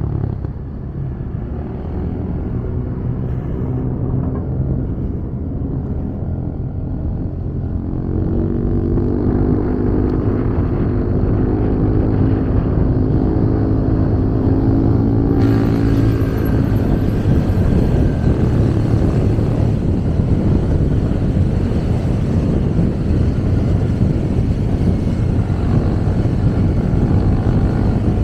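Motorcycle engine running under way with road and wind noise. About eight seconds in the engine note climbs as the bike accelerates, and from about halfway a rush of wind grows louder.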